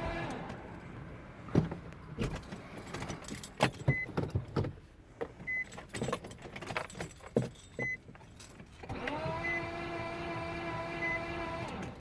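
A 2005 Nissan Maxima that won't start giving a whine as the key is turned, rising in pitch and then holding steady for about three seconds near the end. Before it comes a run of irregular clicks and jangles of the key and ignition.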